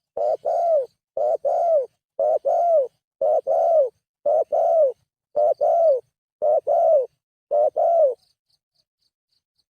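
Spotted dove (tekukur) cooing: a two-part coo, a short note and then a longer arching one, repeated about once a second. The cooing stops about eight seconds in. This is the call used as a lure to draw wild spotted doves.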